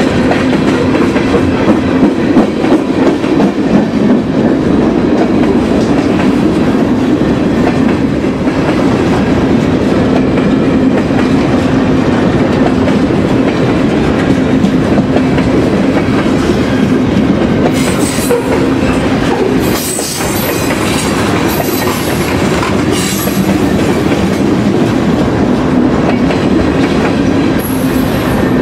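Freight cars rolling past close by: steady wheel rumble and clickety-clack over the rail joints, with several brief high-pitched wheel squeals in the second half.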